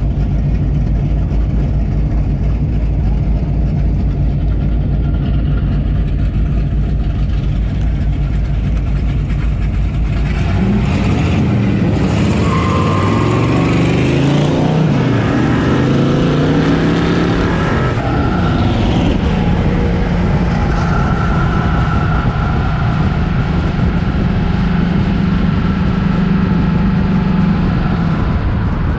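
Classic and muscle car engines: a steady low engine rumble for about ten seconds, then several engine notes rising and falling as cars rev and accelerate, settling back into a steady drone after about twenty seconds.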